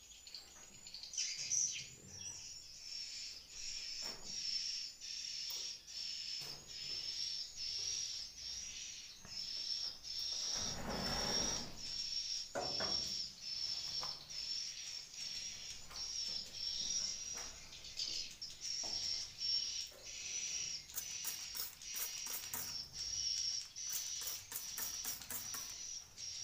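Swiftlets twittering steadily inside a swiftlet house: a high, pulsing chirp that repeats roughly once a second. Near the end come quick trains of sharp clicks, and about ten seconds in there is a brief louder rustle.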